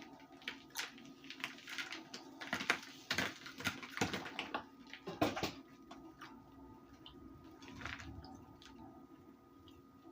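Baked cornstarch crunching: a run of crisp, dry crackles, thickest in the middle and thinning out toward the end.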